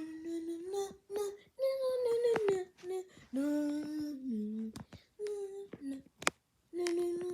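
A voice humming or crooning a tune in short phrases of held notes that step up and down in pitch, with brief pauses and a sharp click or two.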